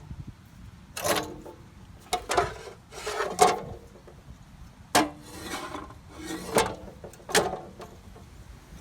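A series of short scraping and rubbing sounds, about seven, as of hard parts or tools being slid or rubbed against each other.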